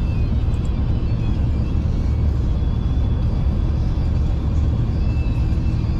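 Steady low rumble inside a moving V/Line diesel passenger train, running along the line, with a faint high whine above it.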